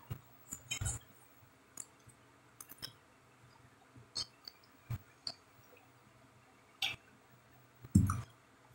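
Chewing with the mouth closed: scattered soft, wet mouth clicks every second or so, with one louder, lower sound near the end.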